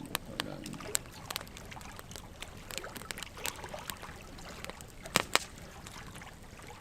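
Wood fire of burning logs crackling: irregular sharp pops over a soft steady hiss, with two louder pops in quick succession about five seconds in.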